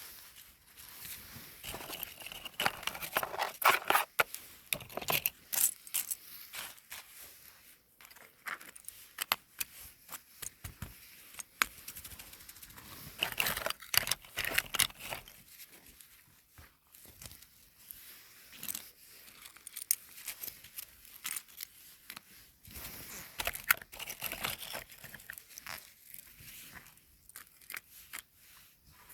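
Close-up crinkling and crackling of something being handled, in irregular bursts thick with sharp clicks, louder around a few seconds in, in the middle and near the end.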